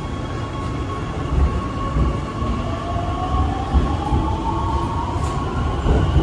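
Shanghai Metro Line 9 train running, with a heavy low rumble and a steady whine, plus a second whine that rises in pitch from about halfway through.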